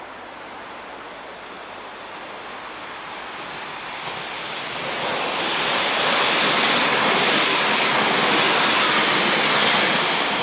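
Class 195 diesel multiple unit approaching along the platform, a rushing noise that builds over the first half and then holds loud, easing slightly near the end.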